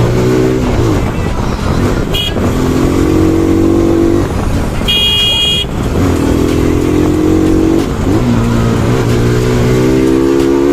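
Bajaj Pulsar NS200's single-cylinder engine pulling through the gears, its pitch climbing and then dropping at each shift, several times over. A vehicle horn beeps briefly about two seconds in and honks again for about a second around five seconds in.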